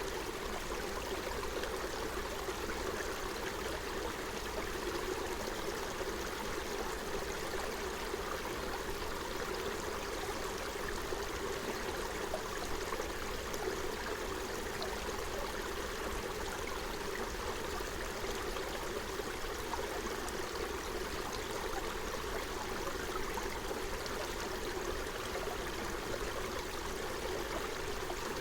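Forest stream flowing steadily over stones, a constant rush and babble of water.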